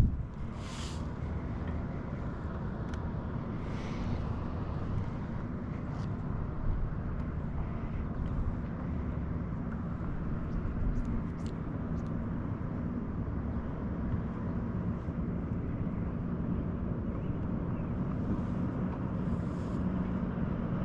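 Steady low drone of a distant engine, with a few faint clicks and taps.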